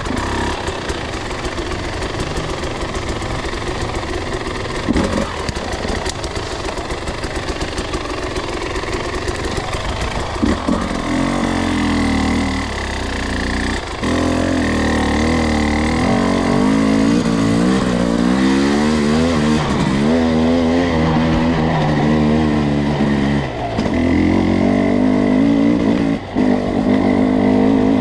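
Two-stroke dirt bike engine on a trail ride: running at low revs at first, then from about ten seconds in pulling under throttle, its revs rising and falling again and again.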